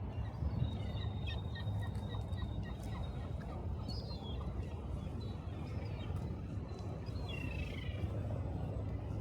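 A bird calling in a quick series of short chirps, about four a second, then two short runs of falling chirps, over a steady low rumble of city traffic.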